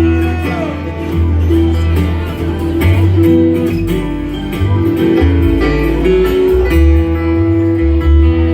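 Bluegrass band playing, led by acoustic guitar picking, with deep bass notes moving underneath.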